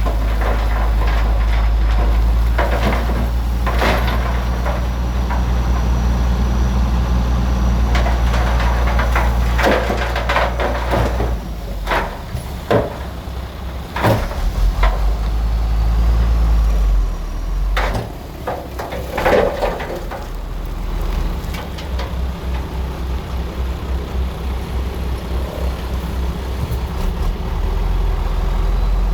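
Bulldozer's diesel engine running steadily at working load, its note dipping and changing a few times, with a series of sharp metallic knocks and clanks from the machine at work.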